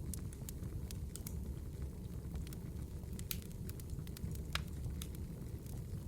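Wood fire burning, a steady low rumble with irregular sharp crackles and pops, the loudest pop about four and a half seconds in.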